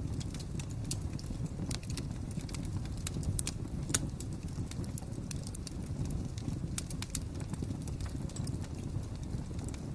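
Wood fire crackling: a steady low rumble with irregular sharp pops and snaps, the loudest pop about four seconds in.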